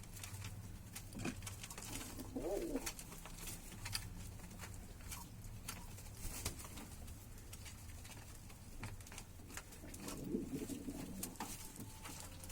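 Ornamental cage birds giving low calls, once about two and a half seconds in and again for about a second near the end, among scattered light clicks and scratches.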